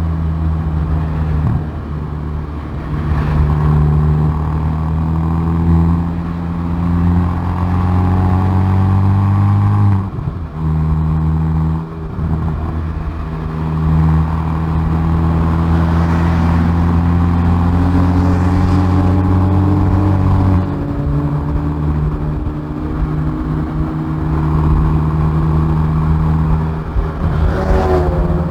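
Exhaust of a Hyundai i30N Performance's turbocharged four-cylinder under hard acceleration on a race circuit, its pitch climbing slowly through long pulls. The engine note drops sharply about a third of the way in and again about two thirds in, as the revs fall, with tyre and wind noise underneath.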